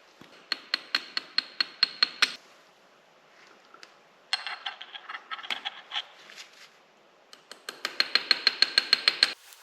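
Ratchet wrench clicking in three quick runs of about five to seven clicks a second, each click with a bright metallic ring; the last run stops abruptly.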